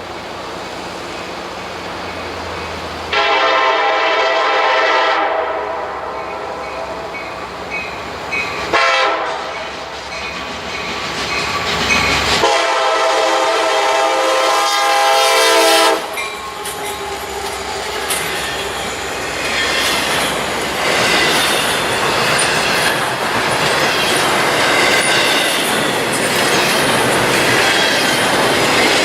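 Locomotive air horn sounding several blasts, a long one and then more after a short break, starting about three seconds in. At about sixteen seconds the horn stops, and the train passes close by: a steady rush of steel wheels on rail with clickety-clack over the rail joints.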